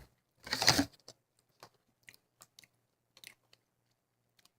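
A person chewing food, with one short loud crunch about half a second in followed by faint scattered chewing clicks.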